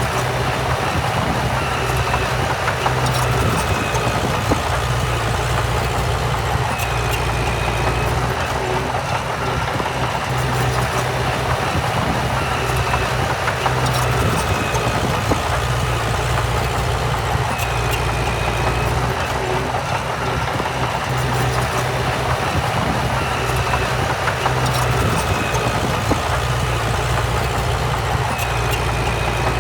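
Diesel engine of heavy earthmoving machinery running steadily, with a deep constant hum. A short high chirp recurs every few seconds over it.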